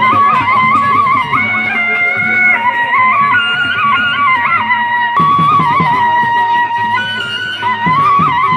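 Traditional Sasak peresean music: a wind instrument plays a high, ornamented melody over a steady beat of drums and struck percussion.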